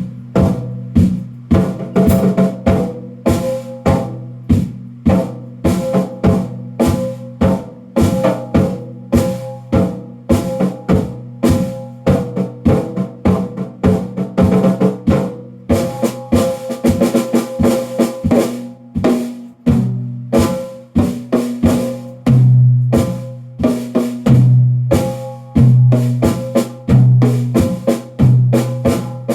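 Drum kit being played in a steady run of strikes, with a deep ringing drum note that comes in heavier repeated hits in the last several seconds.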